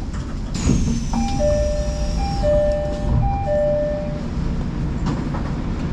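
Odakyu Line electric train running with a steady low rumble. Just over half a second in, a high thin tone starts suddenly, sliding slightly down for about two seconds. Over it sounds a two-note electronic chime, repeated three times about once a second.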